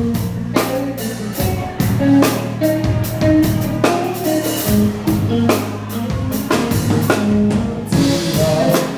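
Pop cover band playing an instrumental passage: a drum kit keeps a steady beat over sustained bass notes and other instruments.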